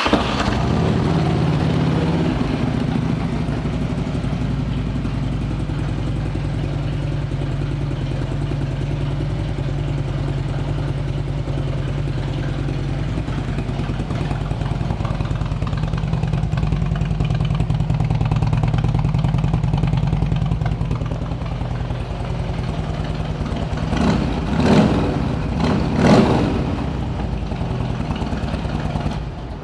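2006 Harley-Davidson Street Glide's Twin Cam 88 V-twin, breathing through aftermarket Bassani exhaust pipes, idling steadily. It is blipped twice about 24 to 26 seconds in, then shut off near the end.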